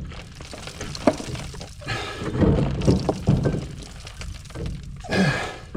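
Irregular clunks, knocks and scrapes of heavy metal parts being handled as the clutch assembly comes off the dozer's flywheel, with a sharp click about a second in.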